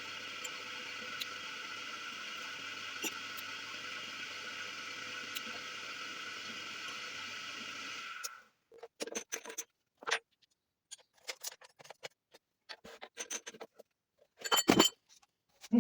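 A steady machine hum with a few fixed tones that cuts off abruptly about eight seconds in, followed by scattered clicks and knocks of handling, the loudest a short clatter near the end.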